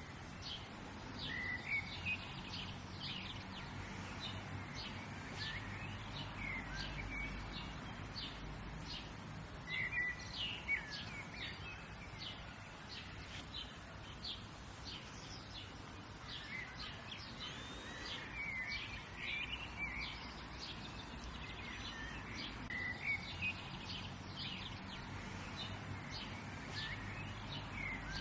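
Several small birds chirping and singing, many short high chirps and warbled phrases, over a steady low background hum.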